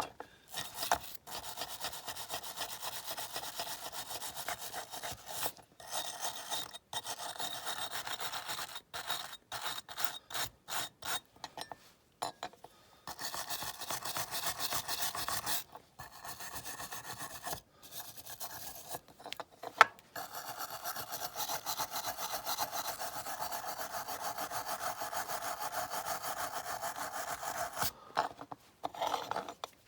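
A small brass wire brush scrubbing caustic-softened paint off a die-cast metal toy airliner in quick back-and-forth strokes, in runs broken by short pauses. There is one sharp tap about two-thirds of the way through.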